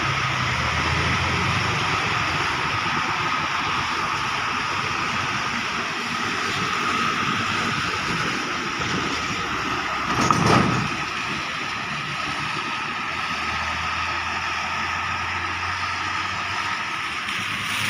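Steady rain hiss mixed with road traffic on a wet road. A vehicle swishes past close by about ten seconds in.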